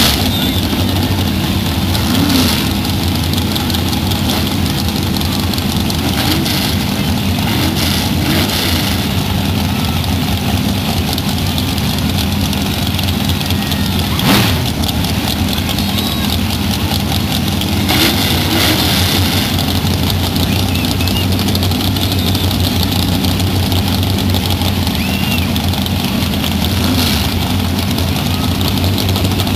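Car engine idling steadily, with several short throttle blips spread through, one of them sharp.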